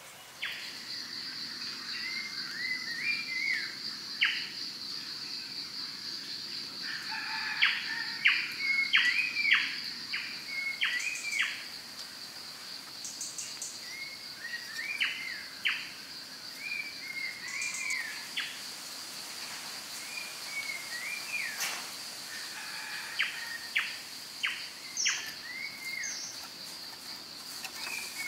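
Outdoor ambience of a bird repeatedly calling in short curving phrases over a steady high-pitched insect drone, with sharp clicks and knocks of bamboo pieces being handled, the loudest cluster about eight to ten seconds in.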